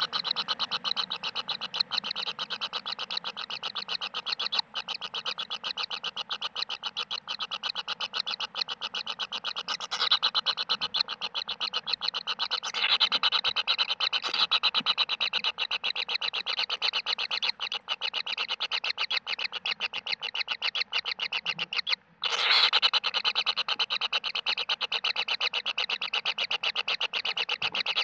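Animal calls: a continuous fast, even train of rasping pulses, many a second, that breaks off briefly about three-quarters of the way through and starts again at once.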